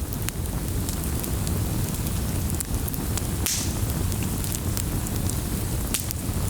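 Wood fire in a fireplace crackling, with frequent sharp pops and snaps over a steady low rumble of the flames. A short hiss comes about halfway through.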